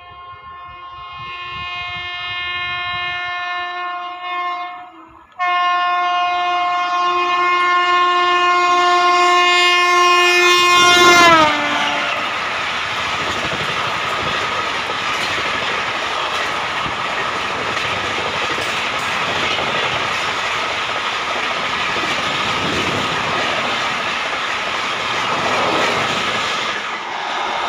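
WAP7 electric locomotive's horn sounding as an express train approaches at speed: a first blast, a short break, then a louder long blast whose pitch drops sharply as the locomotive passes. The Janshatabdi Express's coaches then rush past with a steady rumble and clatter of wheels on rails.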